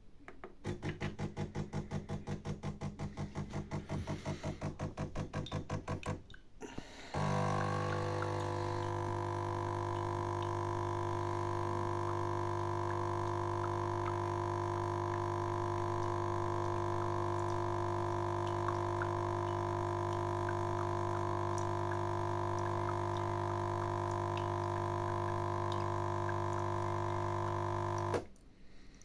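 The water pump of a DeLonghi La Specialista Arte espresso machine humming as it pumps water: it pulses on and off several times a second for about six seconds, then, after a short pause, runs steadily for about twenty seconds and stops abruptly.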